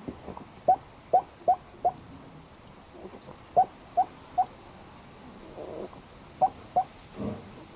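A sleeping black pug making short, high squeaks in quick runs of three or four, each squeak rising in pitch, with two rougher breaths between the runs near the end. The owner can't place it as hiccups or snoring.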